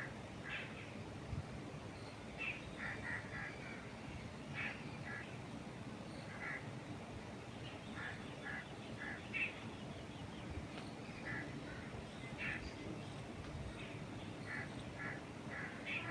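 Birds calling in short notes, scattered through the whole stretch, over a steady low rush of wind moving through trees.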